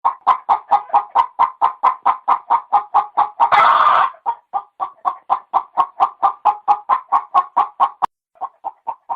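Hen clucking in a quick, even rhythm of about four clucks a second, with one longer, louder squawk about three and a half seconds in.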